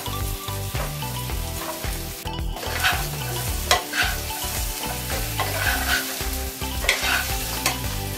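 Fried pork chops sizzling with garlic and sliced jalapeño in a nonstick wok, a steady frying hiss, while a wooden spatula scrapes and tosses them with several short strokes.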